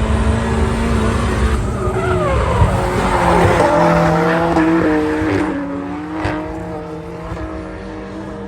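Car tyres squealing in several wavering, shifting tones as a car skids, over a running engine; it fades over the last few seconds.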